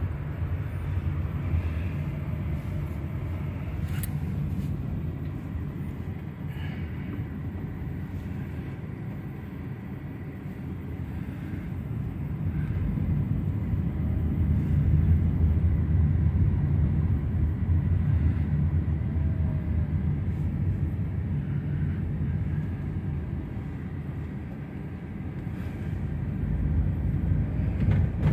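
Road and engine rumble inside a moving car's cabin, growing louder about halfway through and again near the end.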